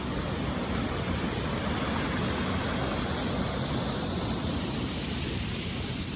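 Steady rush of a river running over small waterfalls, a constant, even roar of water.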